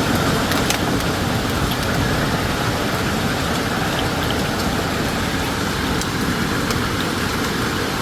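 Heavy storm rain pouring down: a steady rushing hiss with scattered sharp ticks of drops striking.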